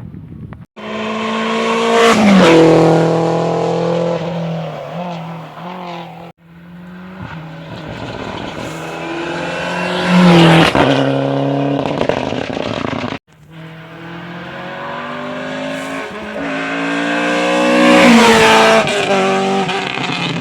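Rally cars at speed on a special stage, three passes one after another: each engine note climbs in steps through the gears as the car approaches, peaks loud as it passes and drops in pitch as it goes away.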